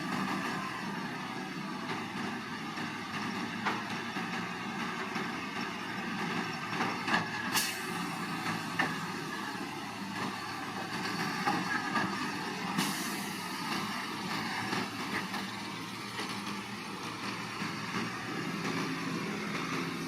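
Diesel engine of heavy earthmoving equipment running steadily, with a couple of sharp metallic clanks.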